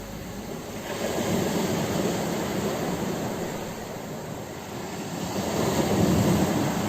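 Ocean waves breaking on a shore: a continuous rush of surf that swells twice, about a second in and again near the end.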